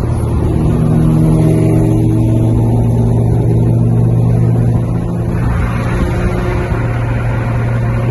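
Car engine running steadily, loud and close.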